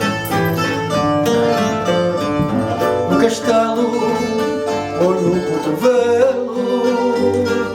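Portuguese guitar and viola de fado playing a plucked fado accompaniment, the bright Portuguese guitar picking a quick melody over the guitar's chords.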